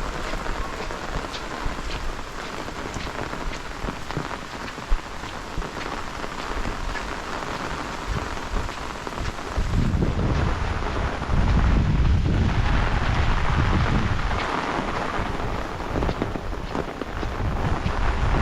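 Heavy rain falling steadily, with one sharp tap about five seconds in. About ten seconds in, a deep low rumble swells up and lasts several seconds, either thunder or strong wind.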